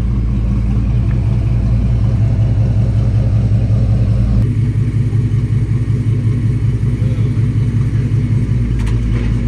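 Car engine running steadily at a low idle, its deep even hum unchanged in pitch; the sound shifts abruptly about four seconds in, as if a different car or a cut.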